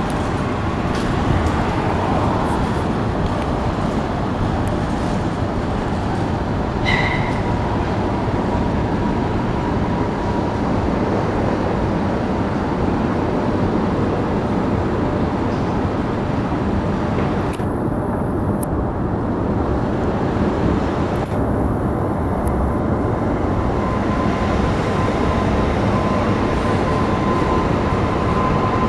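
Union Pacific freight train's cars rolling past, a steady loud noise of steel wheels on rail. A faint high whine comes in now and then, most clearly near the end.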